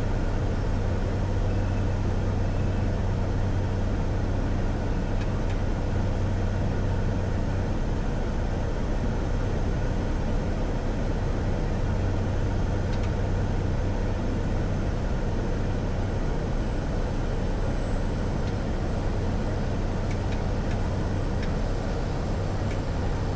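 Steady cockpit drone of a Cessna Caravan's Pratt & Whitney PT6A turboprop engine and propeller, a deep even hum over a constant hiss.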